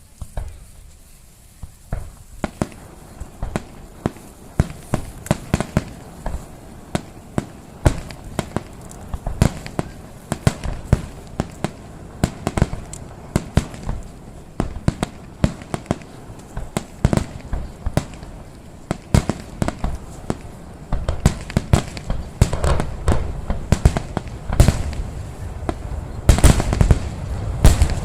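Fireworks display: aerial shells bursting in quick succession, several booming bangs a second. The bangs grow denser and louder in the last several seconds.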